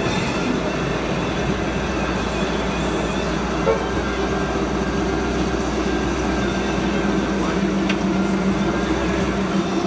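Vehicle engine running steadily over a continuous low hum and background noise.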